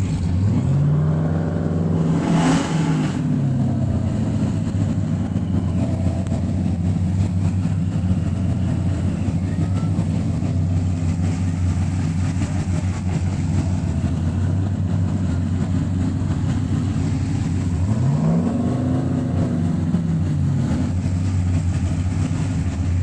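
Car engine idling loudly, revved up and back down twice: once early, then again near the end. A brief burst of noise comes near the top of the first rev.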